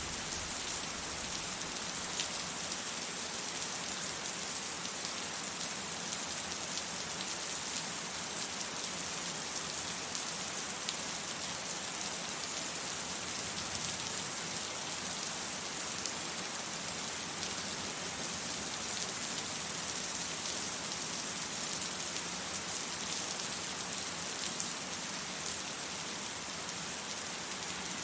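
Steady rain falling and pattering on surfaces, an even hiss with fine scattered drop ticks and no thunder.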